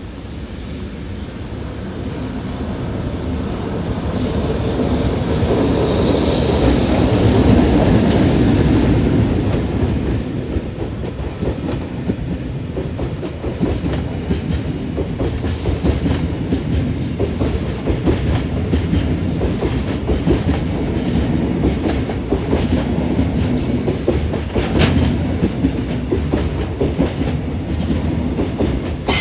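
EH500 electric locomotive hauling a train of container flat wagons, passing through. The rumble grows to its loudest about eight seconds in as the locomotive goes by, then the wagons run past with a steady rumble, clickety-clack of wheels over rail joints and brief high wheel squeals.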